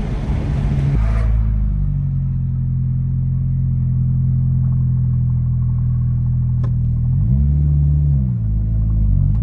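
Turbocharged Honda D17 engine running steadily, with a rushing hiss that cuts off about a second in. From about seven seconds in, the engine revs rise, drop and rise again.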